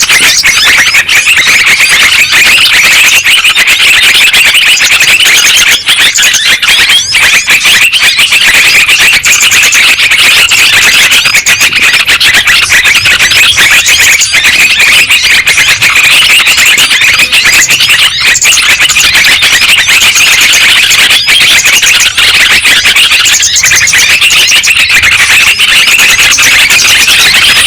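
Loud, unbroken chorus of yellow-vented bulbul (trucukan) calls, many high chattering phrases overlapping with no pauses, as played from a bird-lure recording.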